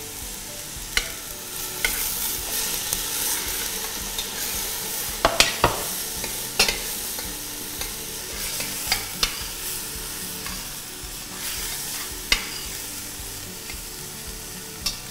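Lentils frying and sizzling on high heat in a stainless steel pot with fried onion and garlic, stirred with a metal spoon. The spoon scrapes and knocks sharply against the pot several times, the loudest knocks about five to six seconds in.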